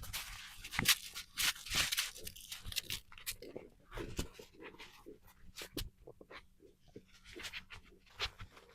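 Footsteps crunching in snow, a run of uneven crackly steps.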